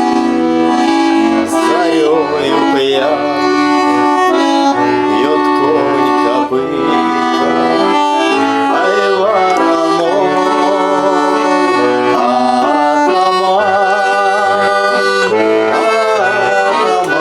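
Accordion playing an instrumental passage of a Russian Cossack folk song between sung verses: a melody line over sustained chords.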